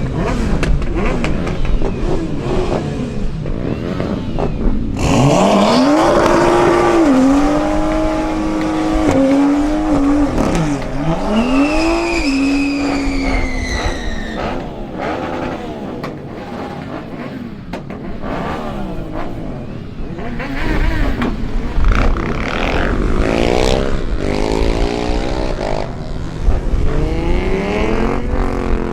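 Cars accelerating away one after another, engines revving up and down hard. One engine is held at high revs for several seconds, with a high whine falling in pitch just after it.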